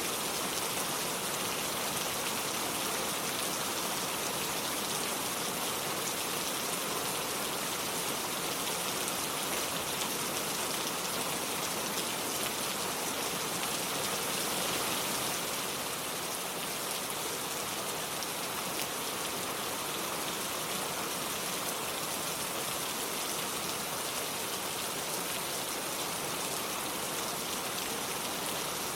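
Steady rain falling: an even hiss full of fine drop patter, a touch softer about halfway through.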